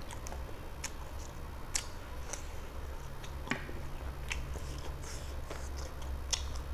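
Close-miked mouth noises of a person chewing a chicken leg piece in curry, pulling the meat from the bone, with scattered short clicks over a steady low hum.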